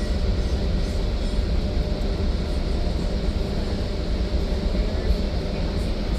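Steady low rumble of a moving passenger train, heard from inside the car.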